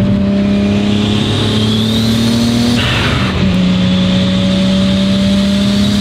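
Toyota Supra MK4's turbocharged straight-six pulling hard under boost, with a high turbo whine rising over the engine note. About three seconds in a gear change breaks the pull with a rushing hiss as boost is let off, then the engine picks up again at a slightly lower pitch.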